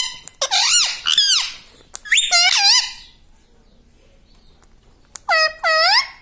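A pet parrot gives three high-pitched, squeaky two-part calls with a wavering pitch: the first about half a second in, the second about two seconds in, the third near the end.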